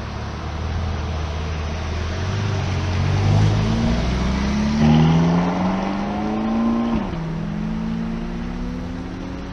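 Sports car engine accelerating hard. Its pitch climbs steadily, drops suddenly on an upshift about seven seconds in, then climbs again in the next gear.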